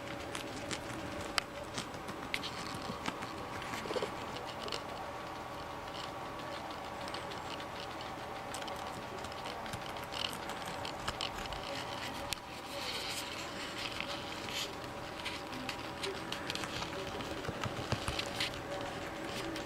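Guinea pigs chewing cabbage: a stream of small, irregular crunching clicks over a steady background hum.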